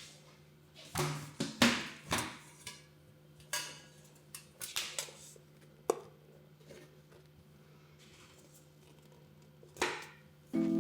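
Scattered light clicks, taps and clatters of small objects being handled on a surface, bunched in the first half with one more near the end, over a faint steady low hum.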